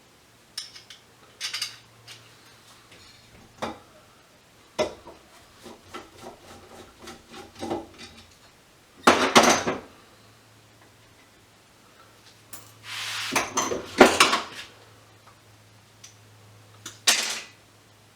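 Metal scrap parts clinking and clattering as they are handled and tossed together: a string of sharp clicks and short rattles, with louder clatters about halfway through, a few seconds later, and again near the end.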